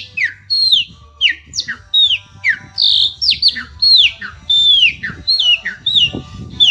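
Chopi blackbird (pássaro-preto) singing: a fast run of clear, downslurred whistles, about two a second.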